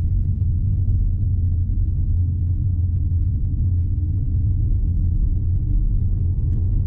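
Steady low road and tyre rumble heard inside the cabin of a moving BMW i4 M50, an electric car, so no engine note is heard.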